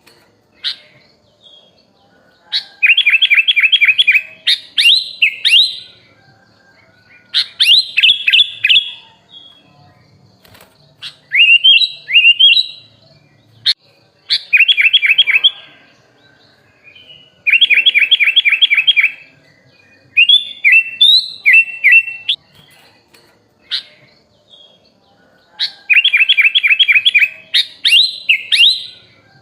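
Sooty-headed bulbul (kutilang) singing loud phrases of one to two seconds with short pauses between them. Each phrase is a fast run of repeated chirps, about six a second, mixed with quick up-and-down whistles, a song laced with phrases mimicked from other birds.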